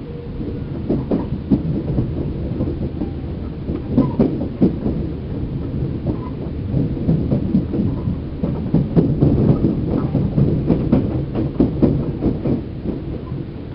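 Inside a Seibu New 2000 series commuter car at the end of its run: a low rumble with many irregular knocks and clatters, busiest in the second half.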